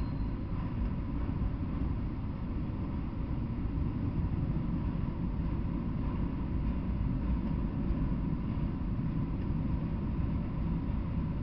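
Freight train of enclosed autorack cars rolling past, a steady low rumble of wheels on the rails with no breaks.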